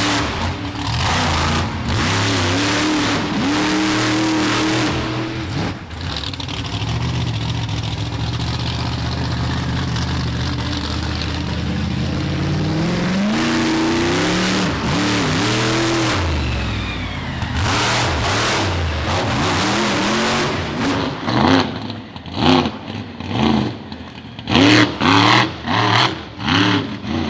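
Monster truck engine revving hard through a freestyle run, its pitch climbing and falling again and again, then blipped in short bursts near the end.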